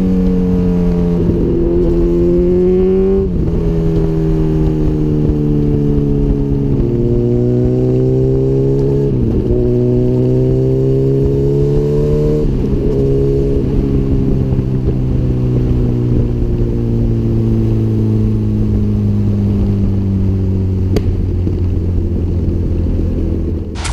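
2004 Honda CBR1000RR's inline-four engine through a Micron full exhaust, riding under throttle. It climbs through the gears with four quick dips in pitch at the upshifts in the first half, then the engine note slowly falls as the throttle is eased.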